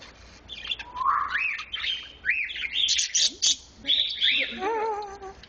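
Pet bird chirping: a rising call about a second in, then a quick run of short arched chirps and calls, with a wavering call near the end.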